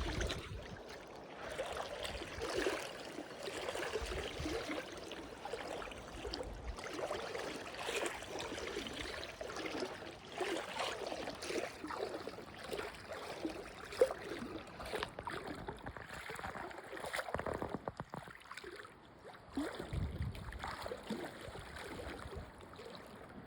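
Legs wading through a shallow river, the water sloshing and splashing with each stride over the steady flow of the stream. One sharp click comes about 14 seconds in.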